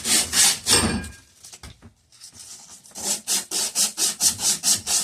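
Emery paper rubbed quickly back and forth on copper pipe, about four or five strokes a second, cleaning the metal bright before sweating a joint. The rubbing stops about a second in and starts again after a short pause.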